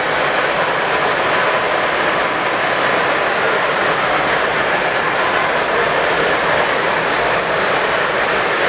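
Steady, even din of a large exhibition hall, a constant rushing noise with no distinct events.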